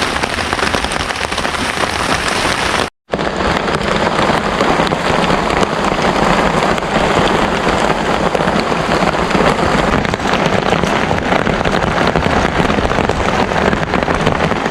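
Heavy rain pouring steadily in a rainstorm, a dense, loud hiss of falling water. The sound drops out completely for a split second about three seconds in.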